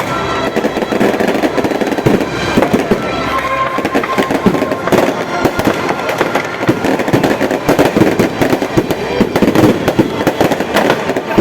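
Fireworks going off in a dense, unbroken run of rapid pops and cracks. Music runs faintly under it in the first few seconds.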